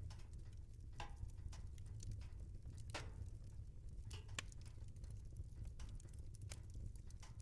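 Fire in a fireplace crackling: irregular sharp pops and snaps over a low steady rumble.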